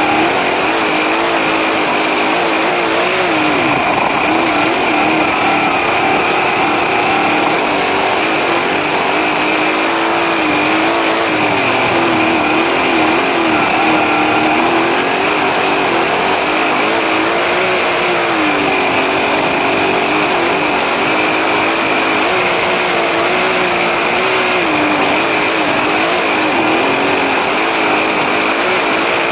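Race car engine running continuously while lapping a track, its revs rising and falling every few seconds through the corners and straights. A steady high whine sounds throughout.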